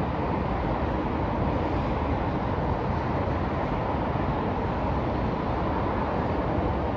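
Steady downtown street ambience: a continuous low rumble of city traffic, even throughout, with no single sound standing out.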